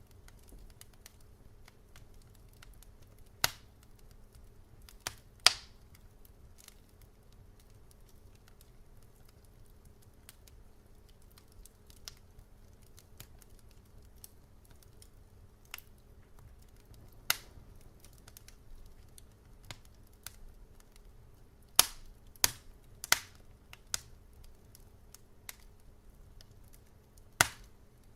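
Wood fire crackling in a fireplace: scattered sharp pops and snaps, a cluster of loud ones a little past 20 seconds in, over a faint steady low hum.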